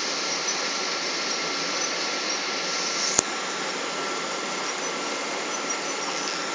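Steady cabin noise inside a Boeing 777 airliner: an even hiss of engine and airflow with a faint steady high tone running under it, and one sharp click about three seconds in.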